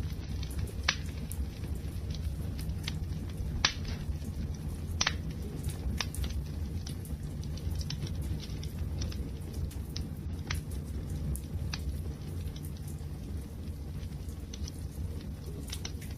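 Wood fire crackling: a steady low rumble of burning with irregular sharp pops and snaps, a few of them louder, near four and five seconds in.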